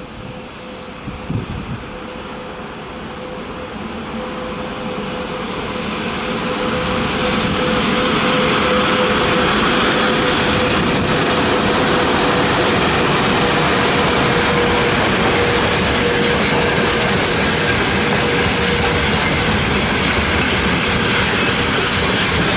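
VL80S AC electric freight locomotive and its train of gondola wagons approaching and rolling past, the rail noise growing over the first several seconds and then holding loud and steady. A steady whine sounds over the noise and dies away a few seconds before the end.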